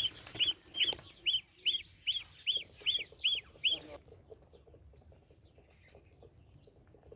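A gosling peeping: a regular run of high, arched peeps, about two or three a second, that stops about four seconds in, leaving only faint background noise.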